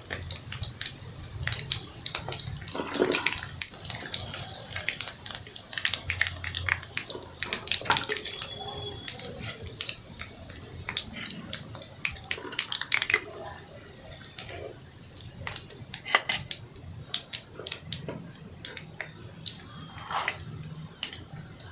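Heavy rain falling steadily, with many sharp irregular drip and splash clicks.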